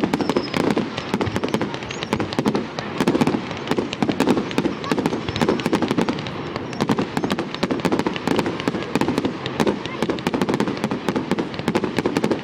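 Fireworks going off in a rapid, continuous barrage of sharp bangs and crackles.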